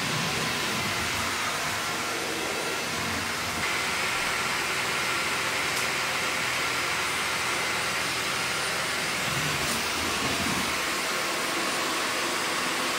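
Dyson Gen5detect cordless stick vacuum running steadily, a rush of air with a faint high whine. It steps up slightly in loudness and pitch about four seconds in.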